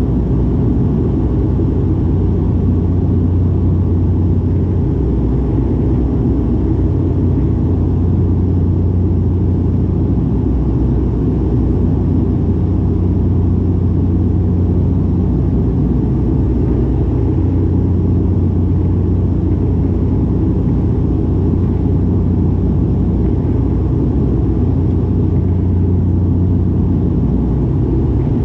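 Dash 8-400 turboprop engines and propellers heard from inside the cabin: a steady, loud propeller drone with a strong low hum over a deep rumble.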